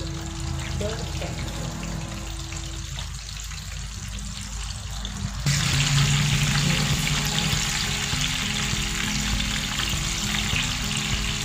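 Battered banana slices frying in hot oil in a frying pan: a steady sizzle that jumps suddenly louder about halfway through, under background music with held notes.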